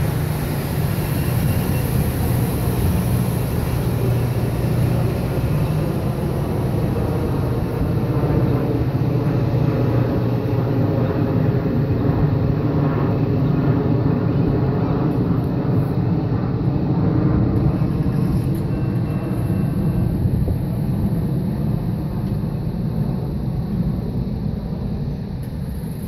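Steady low rumble of a Metra bilevel commuter train pulling away along the tracks, easing slightly near the end.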